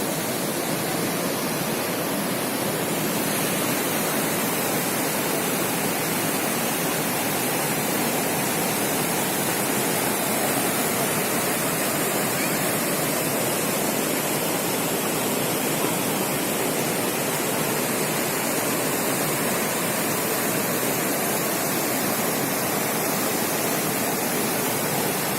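Steady, unbroken rush of water, loud and even throughout.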